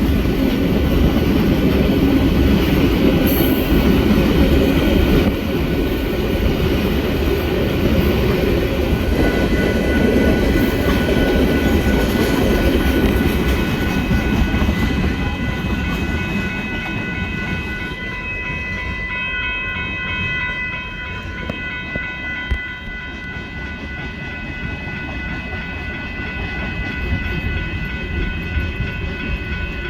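Train running past on the rails, loud at first, then fading over the second half, with thin steady high tones sounding as it goes.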